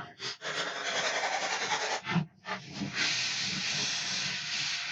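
Steady rubbing on the PlayStation 4's plastic case as it is scrubbed clean, in two bouts with a short break about two seconds in.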